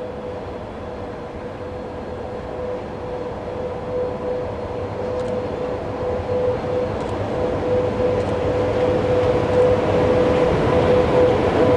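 Freight train rumbling along the rails and growing steadily louder as it approaches, with a steady hum underneath.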